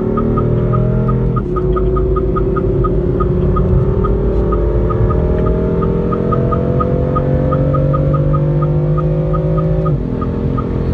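Car engine pulling under acceleration, its pitch climbing slowly through a long gear after a shift about a second and a half in, then dropping sharply near the end as the revs fall. A light regular ticking, about three ticks a second, runs beneath it.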